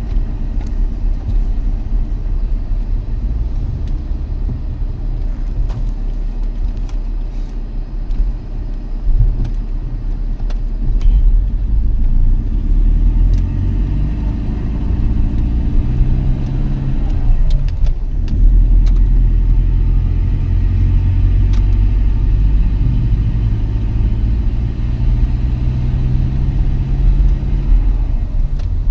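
Car driving: a steady, loud rumble of engine and road. A little past halfway the engine note dips briefly, then climbs again.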